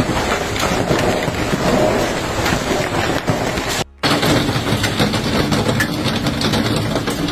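Hailstorm: a dense clatter of hailstones hitting hard surfaces over a steady rush of rain and wind, broken by a brief cut about four seconds in.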